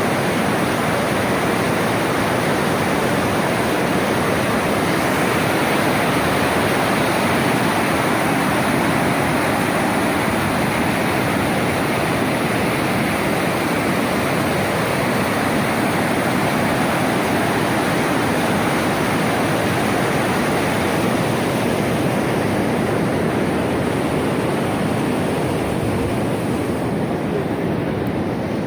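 Floodwater rushing in a steady torrent after heavy rain. It eases slightly near the end.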